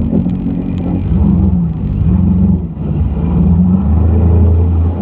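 Engine running under a heavy low rumble, its pitch rising and falling several times.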